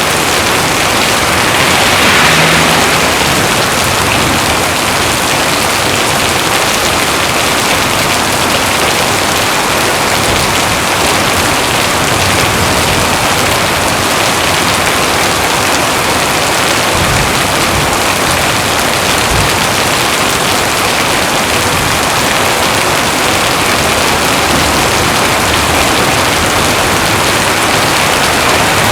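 Heavy rain pouring steadily, a dense even hiss, swelling briefly about two seconds in.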